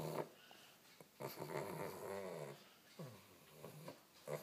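A pug snoring while awake: rough, rattling breaths in several bouts, the longest starting about a second in and lasting over a second. This snore-like noise comes from the pug's short, flat-faced airway.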